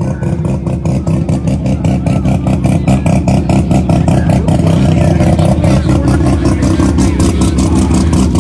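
Drag race car engine idling with a choppy, uneven lope, about six or seven pulses a second. It grows louder about halfway through.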